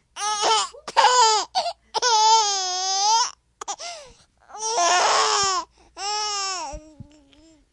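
Infant crying: a run of about five high-pitched wails, each half a second to a second long, with short breaks for breath between them; one wail about five seconds in is harsher, close to a scream.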